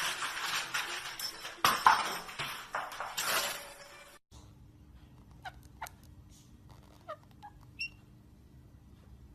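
Parrot sounds: harsh, noisy squawking and scratchy chatter for about four seconds, cut off abruptly. Then comes a much quieter stretch of a few short chirps and clicks over a steady low hum.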